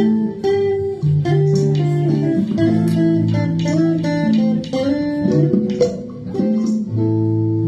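Guitar playing an instrumental break: a melody of plucked, sustained notes, some sliding in pitch, over low bass notes.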